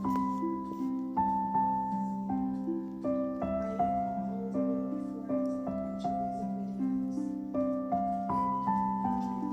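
Soft background piano music, slow single notes over a steady lower accompaniment.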